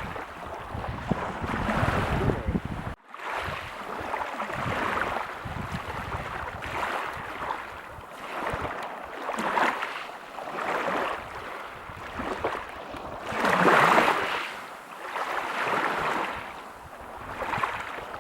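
Ocean waves breaking and washing up a beach, a noisy rush that swells and falls back every second or two, loudest about three-quarters of the way through. The sound briefly cuts out about three seconds in.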